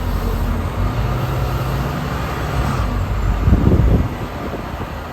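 Road noise inside a moving vehicle's cab: a steady low rumble with a low hum for a couple of seconds, then a short run of thuds about three and a half seconds in.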